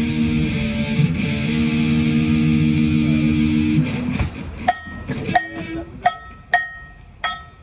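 An amplified electric guitar chord rings out and is cut off just before four seconds in. Then a cowbell is struck repeatedly, about two hits a second, each hit ringing briefly.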